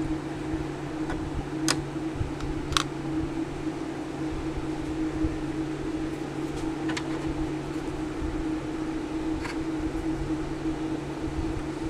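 Steady low mechanical hum, like a small fan or motor running, with a few faint light clicks scattered through it.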